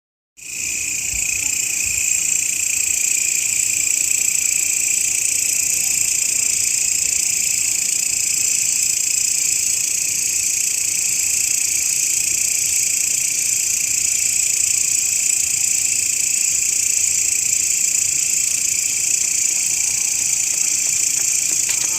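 Grasshopper stridulation: a continuous, steady, high-pitched shrill buzz that starts abruptly at the very beginning and holds at an even level throughout.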